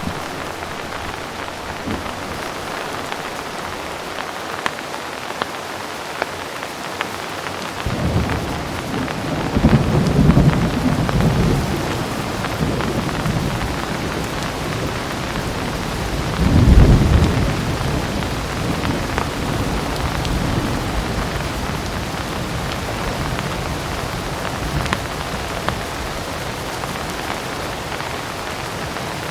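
Heavy rain falling steadily, an even hiss with scattered sharp drop ticks. About eight seconds in a low thunder rumble builds, swells twice (the second, around the middle, the loudest) and fades back under the rain.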